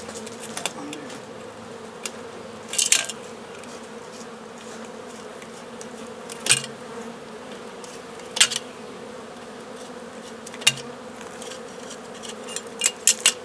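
A honey bee swarm humming steadily, a low even drone. Several sharp clicks or taps stand out over it now and then, the loudest a cluster near the end.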